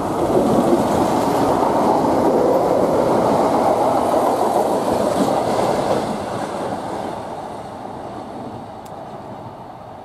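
CrossCountry Class 170 Turbostar diesel multiple unit passing at speed: a loud rush of engine and wheel noise on the rails that fades from about six seconds in as the train runs away.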